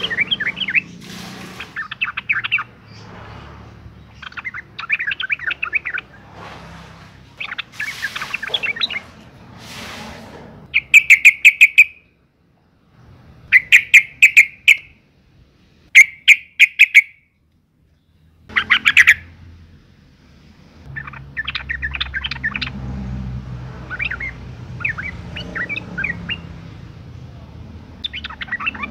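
Female trucukan (yellow-vented bulbul) calling in a breeding-season state, the call used to draw males. Bouts of rapid, chattering notes, with several very loud, short bursts in the middle separated by brief silences.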